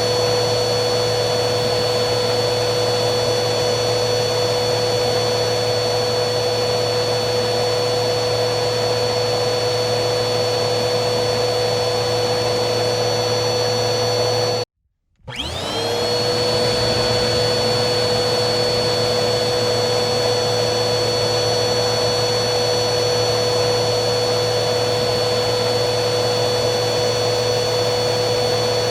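Vacuum cleaner motor running steadily with a constant high whine over a rushing airflow. About halfway through it cuts out abruptly for half a second, then comes back with its whine rising as the motor spins up to speed before it settles again.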